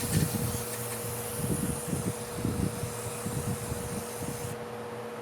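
A steady high hiss that cuts off sharply about four and a half seconds in, over a constant hum, with irregular low knocks.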